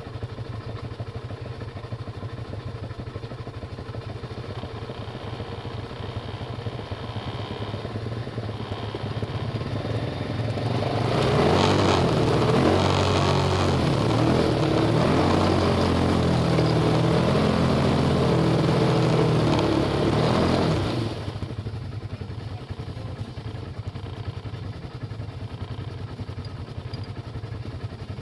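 Off-road vehicle engine idling steadily; about ten seconds in, an engine is revved hard for about ten seconds, its pitch rising, with a loud rushing noise over it, then it falls back to idle.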